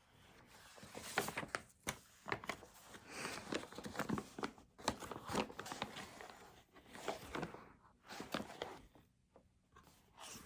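Irregular rustling of paper with scattered sharp clicks and taps, as study materials are handled at a desk.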